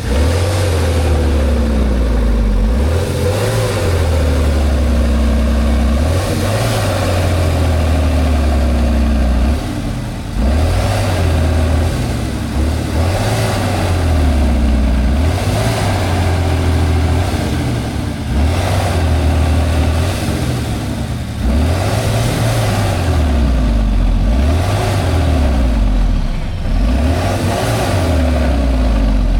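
Heavy off-road truck engine revving up and down over and over, a rise and fall every two to three seconds, as the throttle is worked hard.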